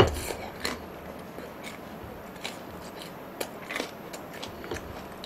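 A person chewing a mouthful of noodles close to the microphone, with scattered wet smacks and soft clicks, the loudest right at the start.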